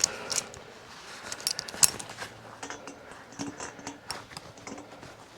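Irregular metallic clinks and taps of hand tools against a motorcycle cylinder as the mechanic works on a stuck head stud, a few of them ringing briefly.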